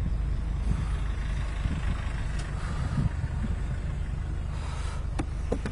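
Toyota GR Corolla's turbocharged three-cylinder engine running steadily at low revs, with a few sharp clicks near the end.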